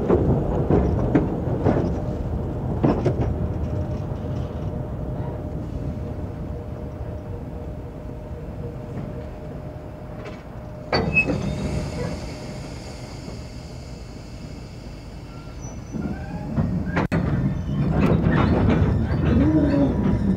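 Electric colliery locomotive and a rake of empty coal wagons on the move: a continuous rumble broken by sharp knocks, with one strong knock about halfway through and another near the end, and the rumble louder in the last few seconds.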